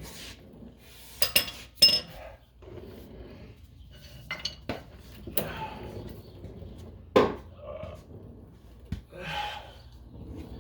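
Metal hand tools and exhaust hardware clinking and knocking under a car: a handful of sharp metallic clinks, some ringing briefly, with scraping and shuffling between them.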